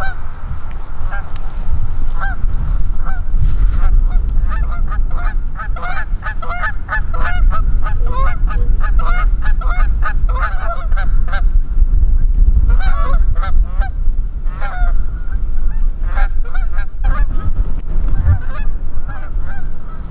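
A flock of Canada geese honking, many short calls overlapping, busiest in the middle and thinning out toward the end, over a steady low rumble.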